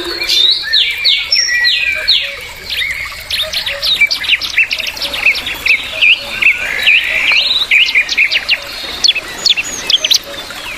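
Birds calling in a forest: a dense, unbroken run of quick chirps and short sweeping whistles, several notes a second.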